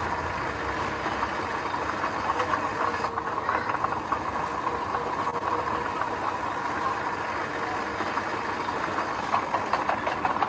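Diesel engine of heavy earth-moving machinery running steadily, with a constant light metallic rattle and clatter over it.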